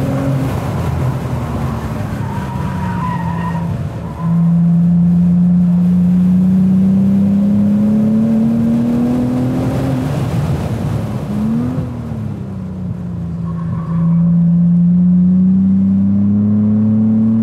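Cadillac ATS-V's twin-turbo V6 heard from the cabin while lapping a track. The engine pulls with rising pitch, drops off sharply about ten seconds in, gives a quick rev blip on the downshift into second, then pulls hard again with rising pitch. A short tyre squeal comes a few seconds in.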